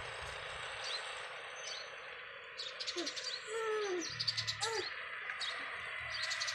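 Birds chirping in the background: scattered short high chirps and clicks, with a few short sliding calls about halfway through.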